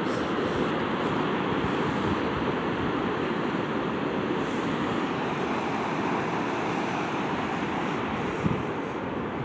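Atlantic Ocean surf washing onto the beach in a steady rush, with wind on the microphone.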